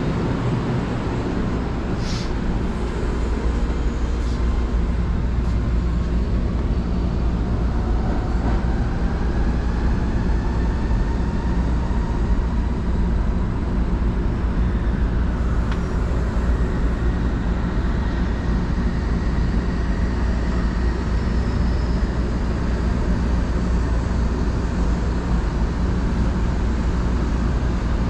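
Keio electric commuter train running, heard from on board: a steady low rumble from the wheels on the track. About a third of the way in, a motor whine rises in pitch and then holds as the train gains speed.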